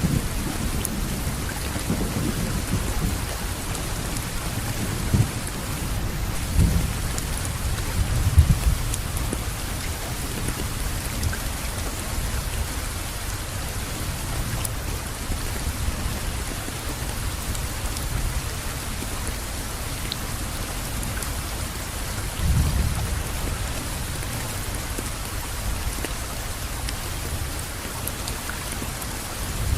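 Steady rain falling in an even hiss, with low rumbles of distant thunder that swell and fade several times, most strongly in the first few seconds and again about two-thirds of the way through.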